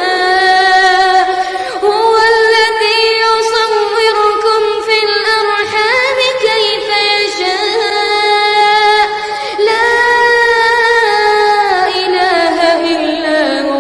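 A young man's high voice in melodic Quran recitation, drawing out long held vowels with ornamented pitch turns and short breaks between phrases.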